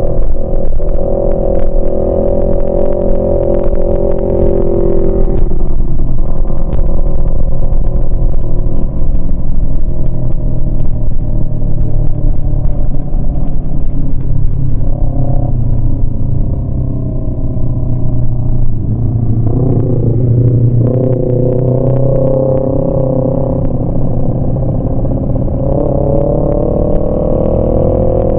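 Yamaha MT-25's parallel-twin engine running under way on a ride. It holds steady revs, drops in pitch after about five seconds, then climbs again twice later on as the throttle opens.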